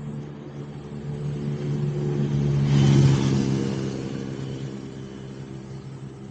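Driving traffic noise: a steady low engine hum, with a swell of tyre and road noise that builds to a peak about three seconds in and then fades, as a vehicle passes close by.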